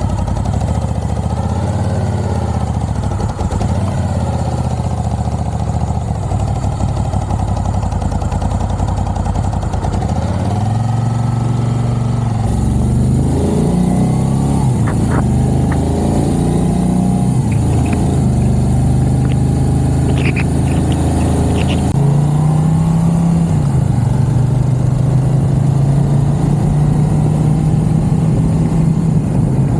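A 2014 Moto Guzzi V7 Racer's 750cc V-twin engine pulling away and accelerating. Its pitch rises and changes in steps through the gears, then it settles into steadier running in the last several seconds.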